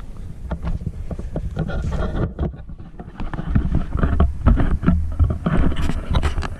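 Wind rumbling on the microphone, with irregular clicks, rattles and knocks of fishing gear being handled while a rod is rigged.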